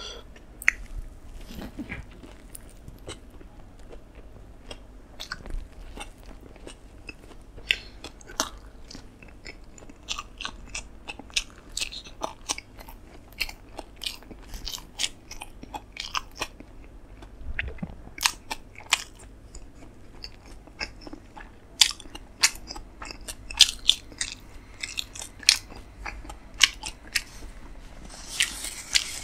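Close-miked bite into a beef burger followed by steady chewing: irregular sharp wet mouth clicks and crunches, several a second.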